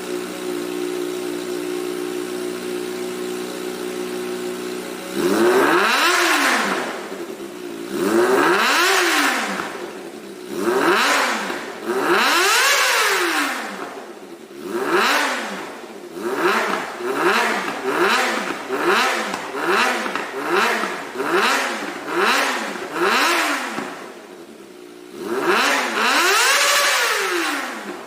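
Kawasaki ZX-25RR's 250 cc inline-four, breathing through an aftermarket CLD Falcon Series exhaust, idles steadily, then about five seconds in is revved hard several times, each rev rising and falling in pitch. A quick run of short throttle blips follows at about one a second, then one more long rev near the end.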